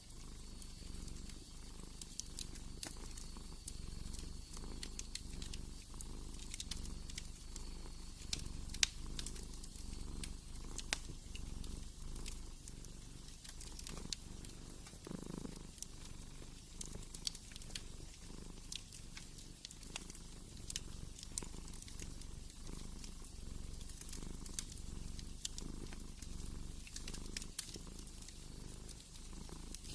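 Domestic cat purring steadily, swelling and easing with each breath, with scattered sharp crackles from a wood fire.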